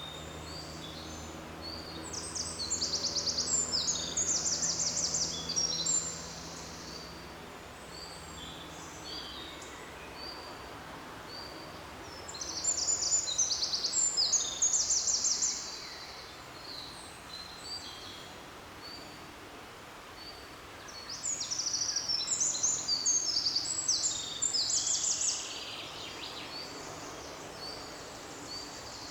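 A songbird singing three separate phrases of about four seconds each, made of fast, high-pitched trills and descending notes, over a faint steady forest background.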